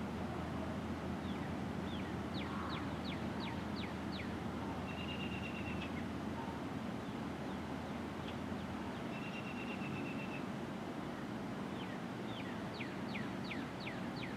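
Songbirds singing: two runs of about six quick downslurred whistles, one a couple of seconds in and one near the end, with a short buzzy trill twice in between. A steady low background rumble runs underneath.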